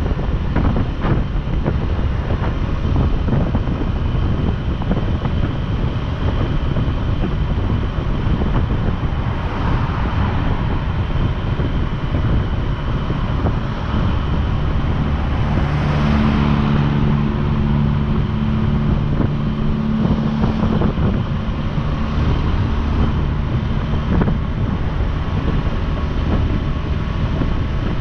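Wind buffeting the microphone on a moving motorcycle, with the engine running underneath. About halfway through a swell of noise comes in, and a steady engine hum holds for several seconds after it.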